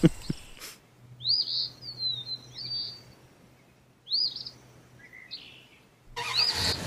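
Small birds chirping: short arched chirps in three groups with pauses between, over a faint steady low hum. A rushing noise comes in near the end.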